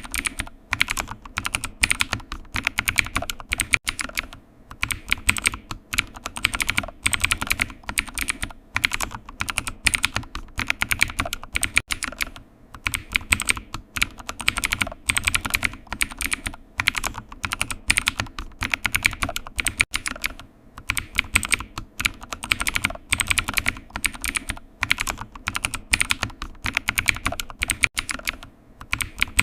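Computer keyboard typing: a steady run of key clicks, several a second, in uneven bursts with short pauses.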